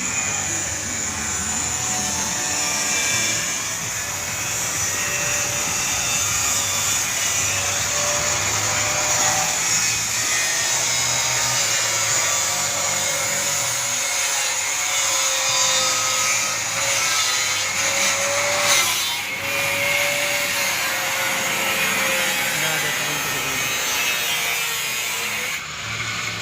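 Angle grinder running under load and cutting steadily, with a high hiss and a motor tone that sags and recovers slightly as it bites.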